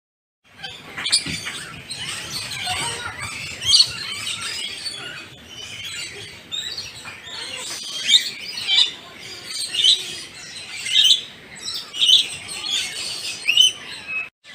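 Many birds chirping and calling together, with louder short high calls repeating about once a second in the second half.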